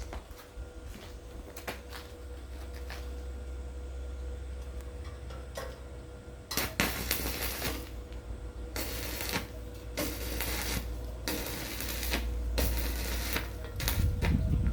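Irregular clicks, knocks and clattering of hard objects being handled over a steady low rumble; the clatter gets busier and louder about halfway through.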